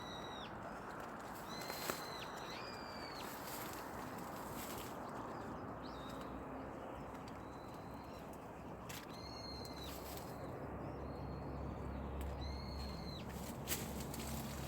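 A bird calling about six times, each a short whistled note that bends down at its end, over a steady rushing background hiss. Two sharp clicks stand out, one about two seconds in and one near the end.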